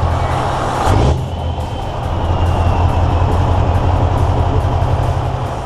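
Heavy diesel truck engine running loudly and steadily, with a short hissing burst about a second in.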